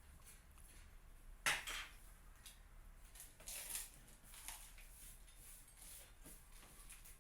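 Sparse light clicks and taps from small hard objects, with one sharper click about a second and a half in and a brief scratchy rustle near four seconds.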